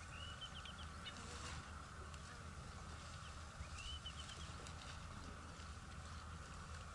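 A bird calling a short phrase of quick chirping notes, once at the start and again about three and a half seconds later, over a faint steady outdoor hiss and low rumble with scattered soft clicks.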